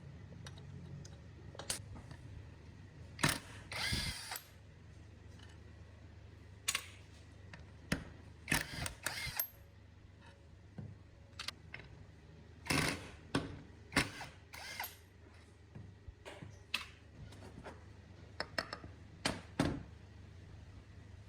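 Hand work with tools on metal compressor parts: irregular sharp clicks and knocks and a few short rasping bursts, over a faint low hum.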